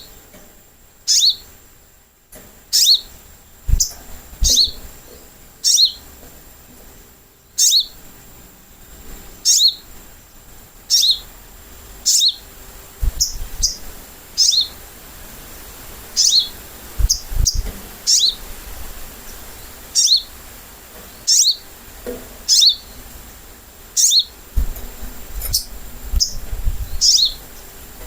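Sogok ontong (little spiderhunter) calling over and over: short, sharp, high chips that each slide quickly downward, repeated about once a second, as used for a lure call.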